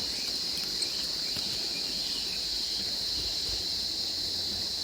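Steady, high-pitched insect chorus chirring without a break, over a faint low background hiss.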